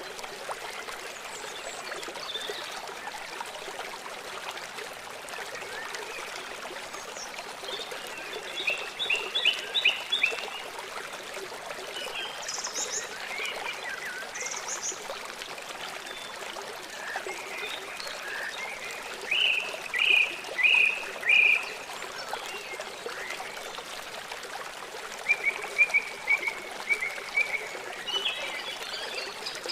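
Small songbirds chirping in short bursts of quick repeated notes over the steady rushing of running water. The loudest burst is a run of four sharp chirps about two-thirds of the way through.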